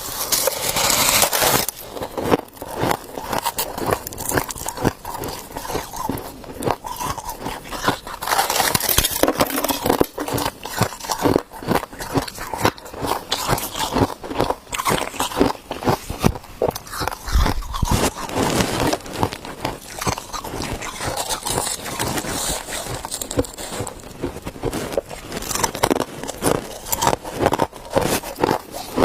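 A person biting and chewing ice, a dense, continuous run of sharp cracks and crunches.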